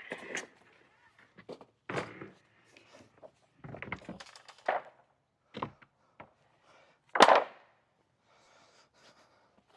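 Irregular knocks and thunks of boards or building material being handled. One sharp, much louder knock comes about seven seconds in.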